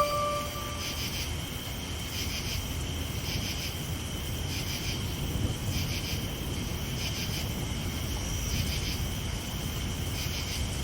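Crickets chirping in pulsing trills roughly once a second, over a low, steady rumble of night-storm ambience.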